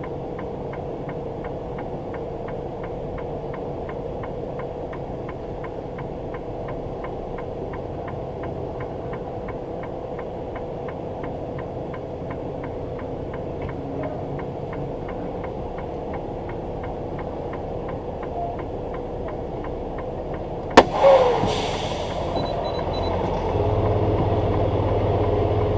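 Semi-truck engine running with a steady hum and a fast, even ticking. About three-quarters of the way through comes one sharp loud crack, and after it the engine runs louder with a deeper rumble.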